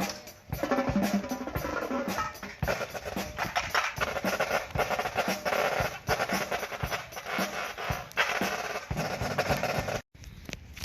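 Drum corps drum line playing: snare drums with rolls over bass drums in a driving rhythm. It cuts off suddenly near the end.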